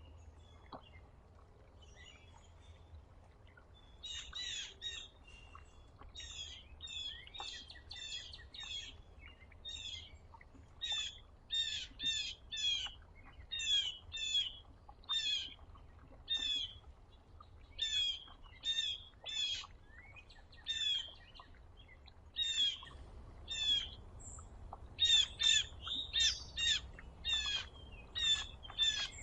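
A songbird calling in a long series of short, sharp chirps, about two a second, starting about four seconds in, over a faint low rumble.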